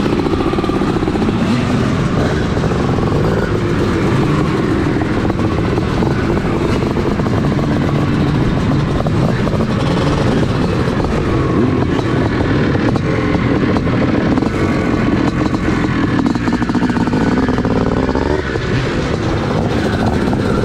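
Motocross bikes racing, engines revving up and down through the gears with several engine notes overlapping.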